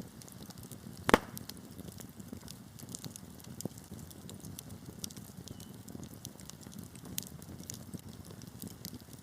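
Wood fire burning in a fireplace: a steady low rumble of flames with many small crackles and one loud pop about a second in.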